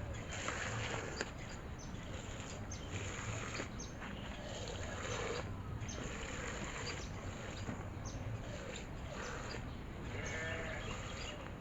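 Birds chirping: a quick, repeated series of short high notes, with a lower wavering animal call now and then.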